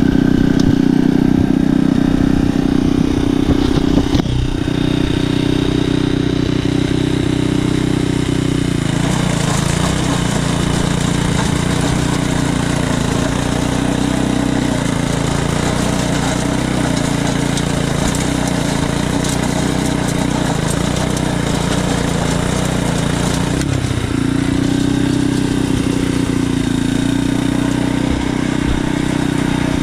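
Earthquake Pioneer rototiller's small gasoline engine running steadily. About nine seconds in its note drops and turns rougher, as when the engine takes on load. Near 24 seconds it briefly returns to the earlier higher, smoother note.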